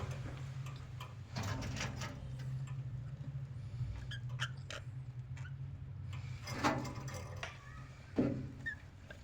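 Budgerigars moving about and chirping faintly: scattered clicks and scratches with a few short chirps in the second half, over a steady low hum.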